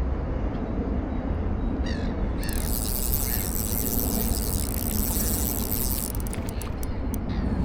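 Outdoor ambience with a steady low rumble, and a bird calling a few quick times about two seconds in.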